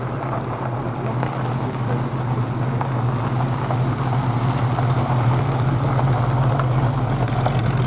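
A car engine running steadily with a low hum, slowly growing louder.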